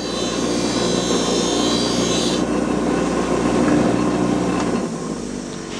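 Motor-driven cleaning wheel running, with a metal sunroof track pressed against it for the first couple of seconds in a hissing scrape that scrubs off corrosion and paint overspray. After that the wheel's motor runs on alone.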